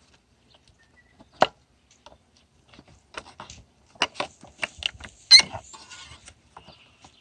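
Scattered knocks and taps from handling a bee package being opened, one about a second and a half in, then a quick run of them from about three seconds in, the loudest near five and a half seconds, followed by a brief scrape.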